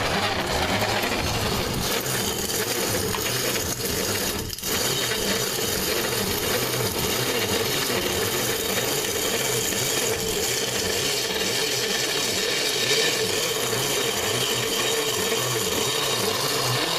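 Bicycle-pedal-powered MayaPedal corn grinder milling dried corn on its finest setting: a steady, gritty grinding that is kind of noisy. The grinding dips briefly about four and a half seconds in.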